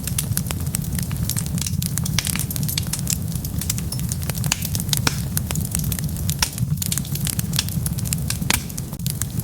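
Wood fire burning with a steady low rumble and many sharp pops and crackles, several a second.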